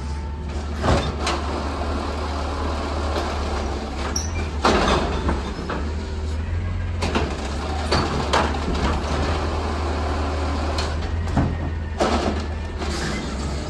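Amrep-bodied garbage truck at work, its diesel engine running with a steady low drone. Several short, sharp bursts of noise break in over the drone.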